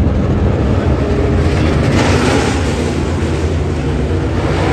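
Dirt late model race car engines running at speed, loud and steady.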